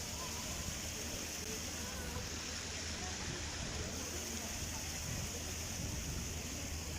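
Steady outdoor background noise: a low rumble under an even hiss, with faint indistinct voices.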